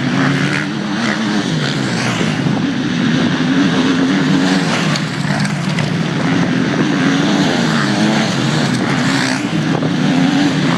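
Motocross bike engines racing, revving up and down continuously as the riders work the throttle around the track.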